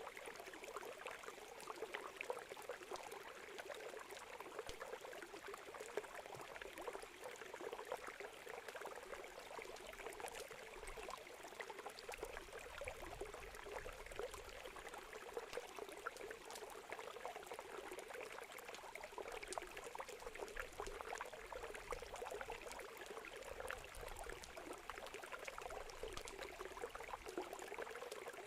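Steady rush of a flowing river under the frequent small crackles and pops of a burning wood campfire.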